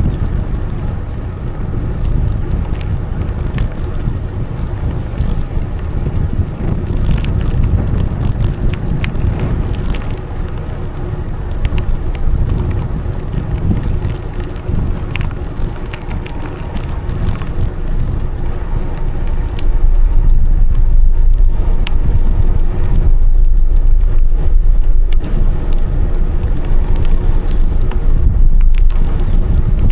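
Wind buffeting the microphone while cycling, with tyre rumble and scattered small clicks from the path surface. The low rumble of the wind gets louder about two-thirds of the way through.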